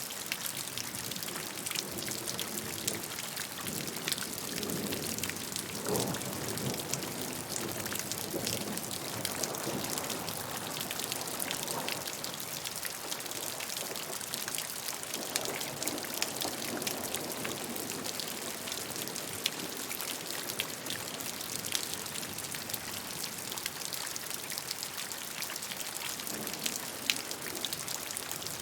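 Steady rainfall: a continuous hiss of rain with many individual drops ticking and splashing on a surface, some heavier patches of lower splashing now and then.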